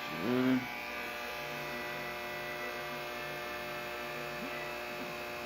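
Steady electrical hum, a stack of steady tones, from an off-grid solar power system's equipment running under load while heating water. A low tone in it cuts in and out about twice a second through the middle, and a brief voice sounds at the very start.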